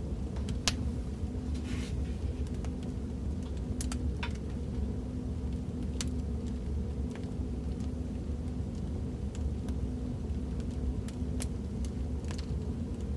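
Fireplace fire crackling: a steady low roar with sharp pops and snaps every second or so.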